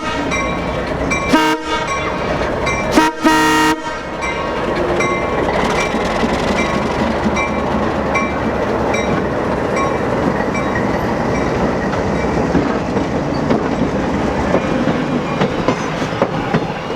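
Train horn sounding three blasts, two short then a longer one, followed by the train rumbling past with wheels clacking over the rail joints. A bell rings at an even pace throughout.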